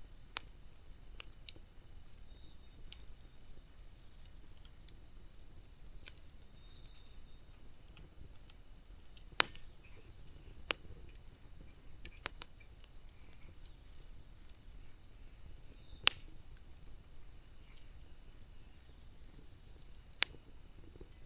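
Wood bonfire burning quietly with a soft hiss, broken by several sharp crackling pops spread through, the loudest about nine and a half, sixteen and twenty seconds in.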